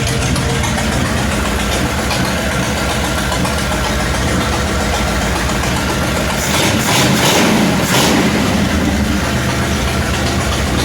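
1966 Ford Mustang engine idling steadily shortly after a cold start, running smoothly. About six and a half seconds in comes a brief louder rush of noise lasting over a second.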